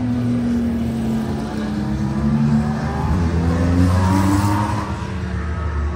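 Car engine running, its pitch rising and falling as it accelerates and eases off.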